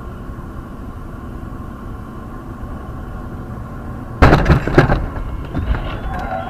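Dashcam recording of a car driving, with steady road and engine noise, then a sudden loud collision about four seconds in: a crash of metal and plastic, followed by a second of clattering debris and smaller knocks.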